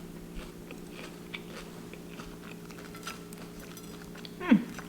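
Crunchy bites and chewing into a freshly deep-fried, panko-crusted shrimp donut, heard as scattered small crackly ticks. Near the end a short voice sound slides down in pitch, the loudest moment.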